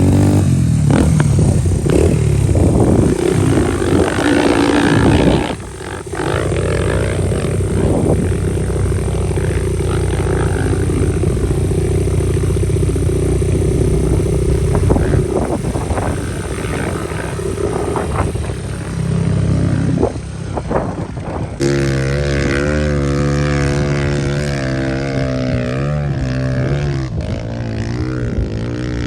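Dirt bike engines running and revving on an off-road trail, the pitch rising and falling with the throttle. The sound changes abruptly about 22 seconds in to a steadier engine note.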